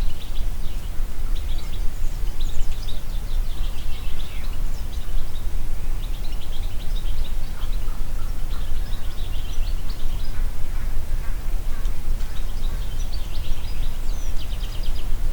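Wind in a forest, with a steady low rumble of gusts, while songbirds sing short phrases of rapid, high repeated notes every second or two.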